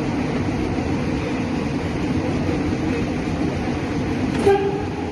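Metro train running, a steady rumble and rail noise heard from inside the carriage, with one short toot about four and a half seconds in.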